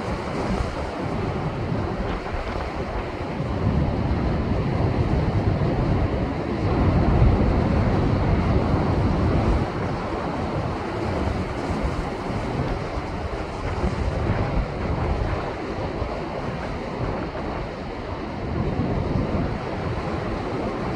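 Rough post-typhoon swell breaking on coastal rocks: a continuous rush of surf with wind buffeting the microphone. A bigger wave swells up about seven seconds in and falls away a couple of seconds later.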